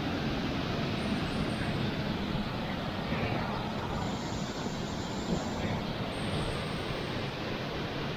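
Steady rushing of a mountain waterfall cascading over rocks, heard close by as an even, unbroken roar of water.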